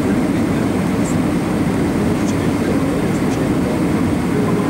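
Steady roar of an Airbus A321 heard inside the passenger cabin: engine and airflow noise, even throughout, with a faint tick or two.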